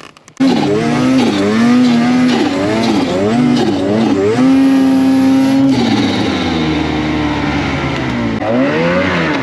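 A snowmobile engine revving up and down while being ridden. It starts suddenly about half a second in, then rises and falls in pitch, with a short steady stretch in the middle.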